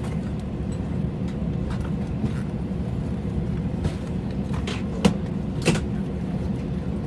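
Steady low rumble and hum inside the cabin of an Airbus A320 after landing, with two sharp clicks about five seconds in and again half a second later.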